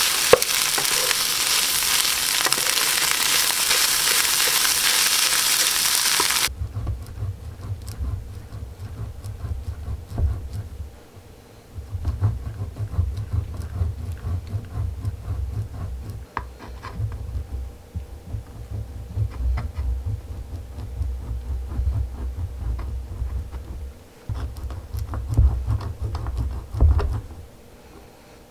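Frying sizzle that cuts off abruptly about six seconds in. Then close-miked eating: low thuds with scattered small crunchy clicks, in short runs broken by brief pauses.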